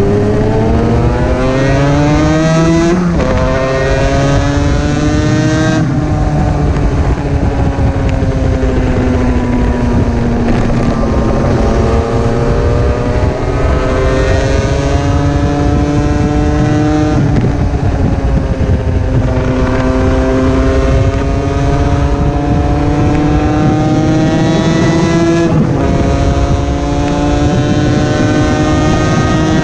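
Two-stroke sports motorcycle engine under way, heard from an on-bike camera with wind rushing over the microphone. The revs climb and drop sharply twice in the first six seconds as it shifts up, then hold at a cruise, the pitch slowly easing and rising, with a few more gear changes later.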